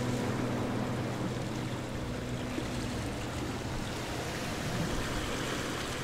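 Sea surf and wind: a steady rushing noise. A faint low hum fades out over about the first half.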